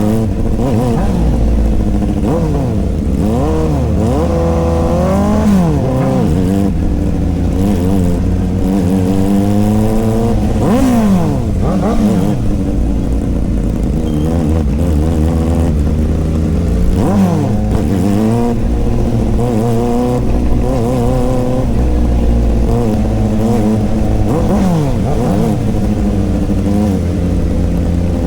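Two inline-four superbike engines revving in repeated throttle blips. The pitch climbs and falls again every second or two over a steady idle, and the revs of the two engines at times overlap.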